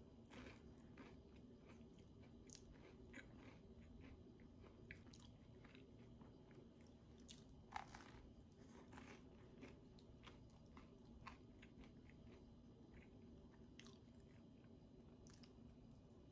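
Faint chewing of avocado toast: soft, irregular crunches and mouth clicks, with a low steady hum underneath.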